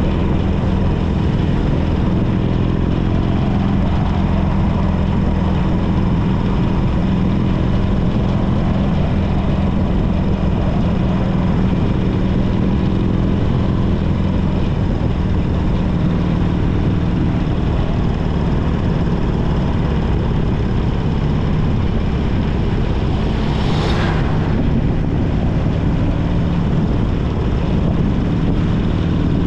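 Harley-Davidson Sportster 1200 Custom's air-cooled V-twin running steadily while the bike cruises, heard from on board. A brief sharp rushing noise cuts in about six seconds before the end.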